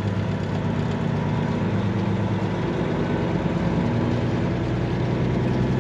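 Semi-truck diesel engine running steadily at low speed, a low even hum.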